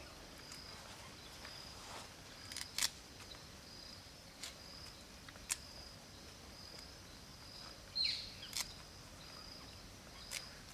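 Faint outdoor ambience: a high-pitched insect chirring pulsing on and off at an even pace, with a few short sharp clicks and taps scattered through it.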